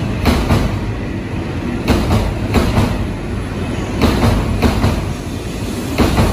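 E5 series Shinkansen train rolling past, its wheels clicking over rail joints in small clusters that come about once a second, over a steady running rumble.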